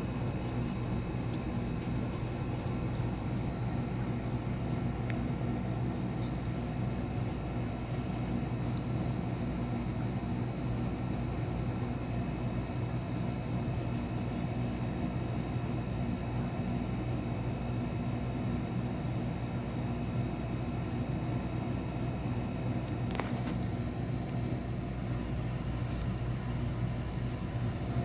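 Steady low mechanical hum with constant droning tones, unchanging throughout, with a few faint, brief high chirps.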